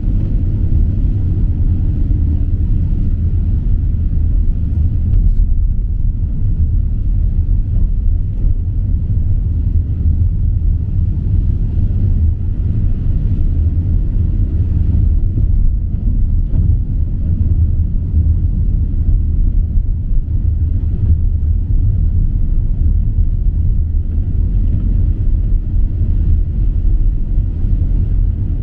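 Steady low rumble of a running vehicle, even and unbroken throughout.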